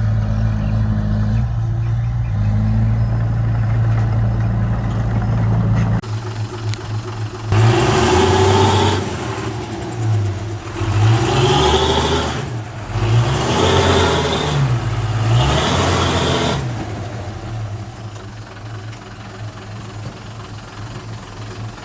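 Diesel engine of heavy construction machinery running steadily, then, after an abrupt change, revving up and dropping back about four times before settling to a quieter idle.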